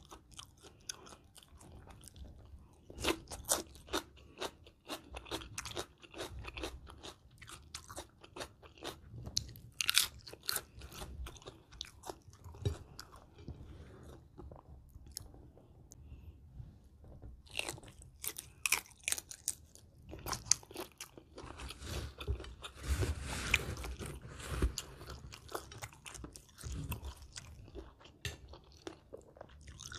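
Close-miked chewing and crunching of a Thai spicy shrimp salad with raw and blanched shrimp: many sharp, crisp crunches and wet mouth sounds, thickest about three-quarters of the way through.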